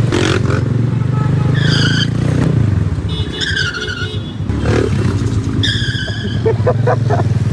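Motorcycle engine running steadily while riding, with three short high-pitched tones, each dipping slightly in pitch, about two seconds apart.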